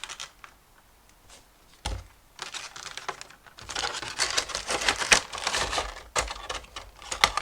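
A cardboard-and-plastic toy box being handled and turned over: rustling and crinkling with sharp clicks and taps, with a single thump about two seconds in.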